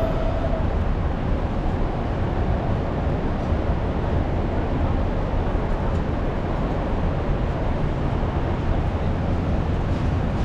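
Steady low rumble and hiss of city street traffic, with no single vehicle standing out.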